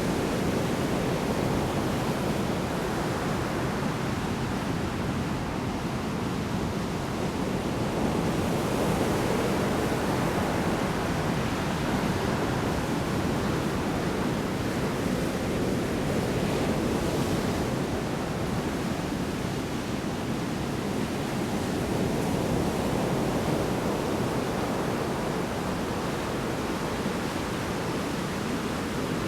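Big storm waves crashing on the shore: a continuous rush of surf that swells and eases slightly.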